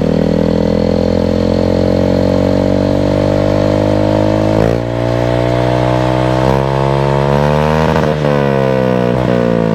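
Yamaha Mio i 125 scooter's single-cylinder four-stroke engine revving through a Villain Trioval aftermarket exhaust canister. The pitch climbs slowly for about four and a half seconds, dips briefly, then climbs faster and drops sharply about eight seconds in, with one more short blip and fall near the end.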